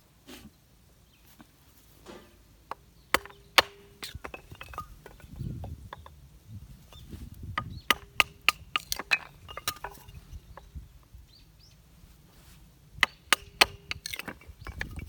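Sharp knocks and strikes in irregular bunches, several of them leaving a brief ringing tone like struck metal, with duller thuds between.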